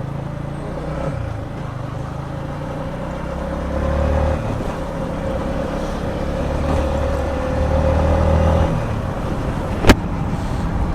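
Yamaha MT-15's single-cylinder engine running low and steady, swelling a little midway, with one sharp click just before the end.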